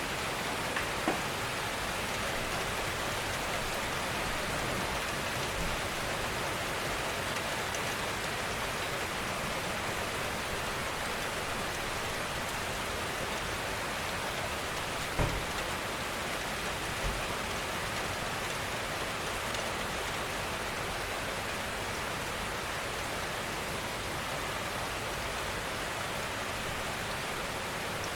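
Steady gentle rainfall, an even hiss of many drops, with a few louder single drop hits: about a second in, near the middle, and shortly after.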